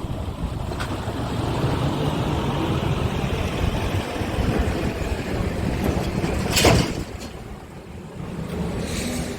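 Scania G450 tractor unit's diesel engine running steadily at idle, with wind on the microphone. About two-thirds of the way through comes one short, loud burst of noise, after which the sound drops quieter for a moment.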